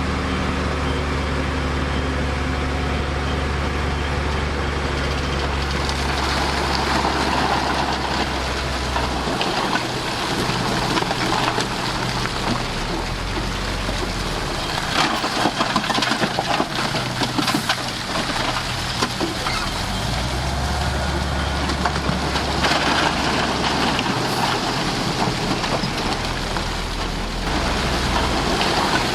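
Bulldozer's diesel engine running under changing load, its low hum rising and dropping several times, with a stretch of rattling and clanking from the machine's tracks or blade about halfway through.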